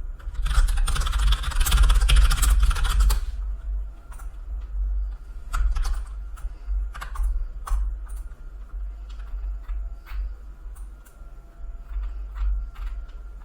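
Computer keyboard typed on rapidly for about three seconds, then scattered single key clicks, over a steady low hum.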